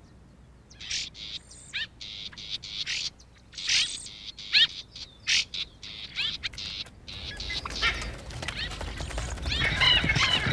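Birds calling: a string of short, high chirps and quick downward-sweeping calls, with a rapid chattering series building near the end.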